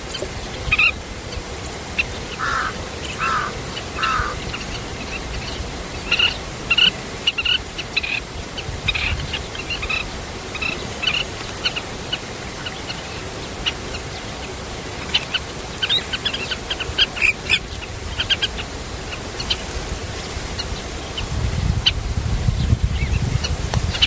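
Birds at a nest chirping in short, high calls scattered throughout, with three lower, longer calls a few seconds in. A low rumble rises near the end.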